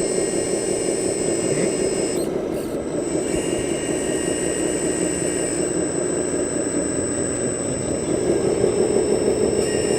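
Radio-controlled model vehicle running, a steady mechanical noise with several thin high whining tones that change pitch a couple of seconds in and again near the end.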